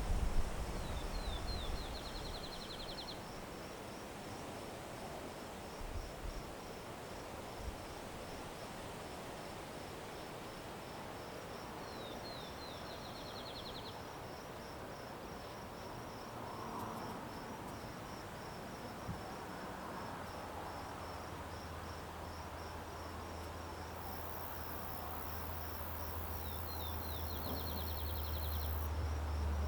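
Crickets chirping in a steady, evenly pulsing high trill, while a songbird three times sings a short song of a few quick down-slurred notes running into a fast trill. A low rumble builds over the last third, and a high hiss comes in for several seconds near the end.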